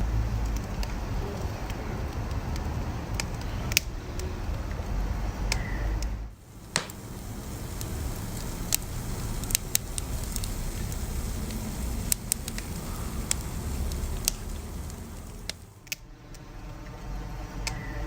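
Wood fire burning, with a steady low rumble of flames and sharp crackles and pops scattered throughout. The sound drops away briefly about six seconds in and again near the end.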